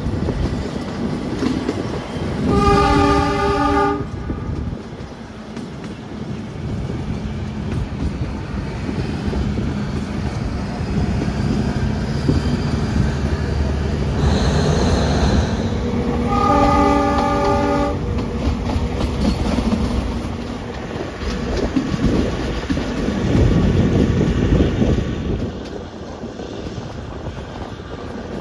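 Narrow-gauge train running along the track with a steady rumble and wheel clatter. Its horn sounds twice, about a second and a half each time: once a few seconds in and again a little past halfway.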